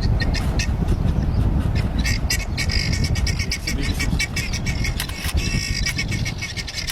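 Birds squawking, a rapid run of short harsh calls, over a steady low rumble.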